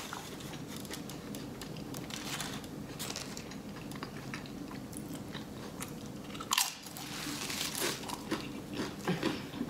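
A person chewing a mouthful of burrito close to the microphone: wet mouth sounds with many small crunches, a louder crunch about six and a half seconds in.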